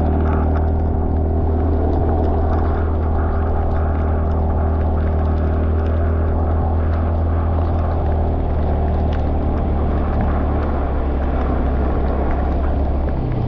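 Motorbike engine running at a steady speed while riding, a loud steady low drone with a little wind and road noise; the pitch rises slightly near the end.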